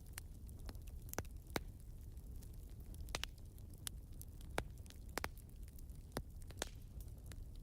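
Wood fire crackling: irregular sharp pops and snaps, about ten of them, over a steady low rumble.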